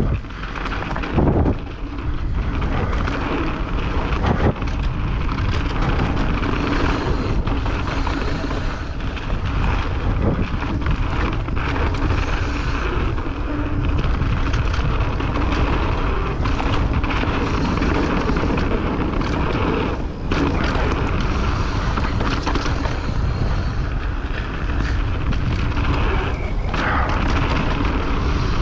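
Wind buffeting the microphone of a camera riding along on a mountain bike in motion on a trail: a steady, loud rush with heavy low rumble. Brief knocks from the bike and tyres over the ground come through it here and there.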